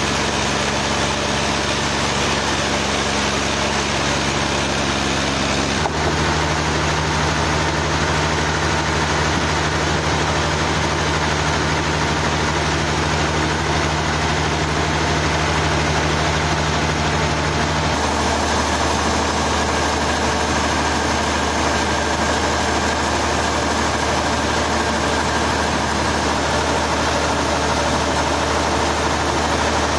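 Sawmill machinery running steadily with a loud, even engine hum and the noise of the saw. The tone shifts abruptly twice, about six seconds in and again around eighteen seconds.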